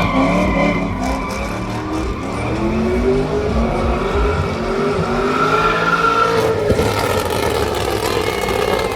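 A car engine revving up and down again and again as it is driven hard, with a higher steady squeal-like tone in the middle of the stretch.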